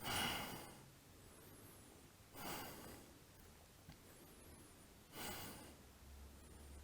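A person breathing audibly, three breaths about two and a half seconds apart.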